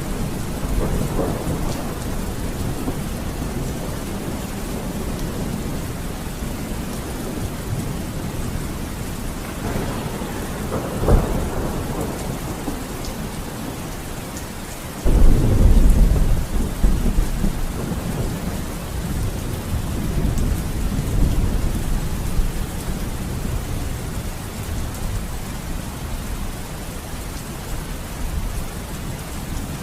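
Steady rain with rolling thunder. A sharp crack comes about a third of the way in, and a sudden loud thunderclap about halfway through rumbles away over several seconds.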